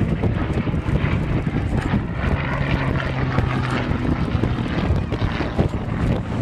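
A propeller-driven aircraft's engine droning steadily overhead, its hum clearest in the middle, over gusty wind noise on the microphone.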